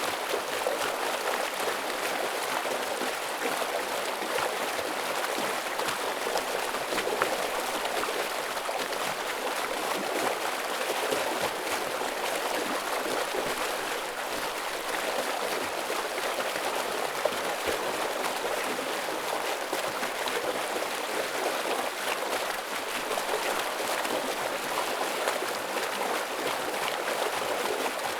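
Heavy flow of a forest stream over rocks: a steady rushing with small splashes throughout.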